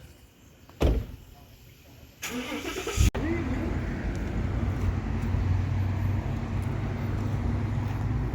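A single thump about a second in, then a car engine cranks briefly, catches about three seconds in and settles into a steady idle.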